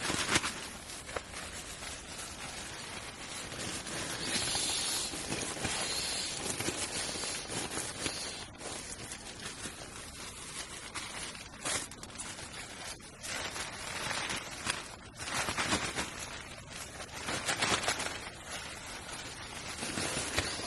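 Irregular rustling and scuffing, rising in several louder stretches, with scattered light clicks.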